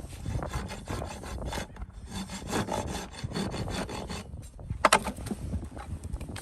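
Farrier's rasp filing a hoof in rapid scraping strokes, with one sharp click about five seconds in.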